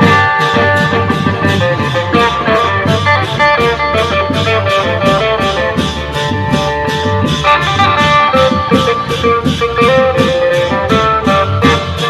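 Phin, the Isan plucked lute, playing a lively melody over a klong yao long-drum band in sam cha rhythm, with sharp percussion strokes keeping an even beat about three times a second.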